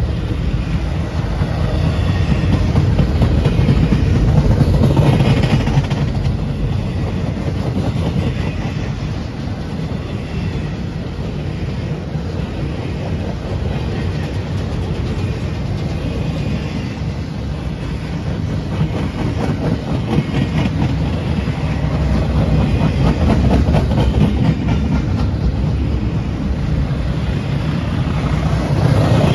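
A train rolling past, a steady rumble of railcars and wheels on the rails that swells twice.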